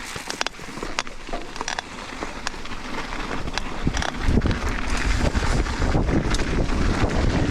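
Mountain bike rolling off over wet dirt, with sharp clicks and rattles from the bike. From about halfway, heavy wind buffeting the microphone grows as the bike picks up speed.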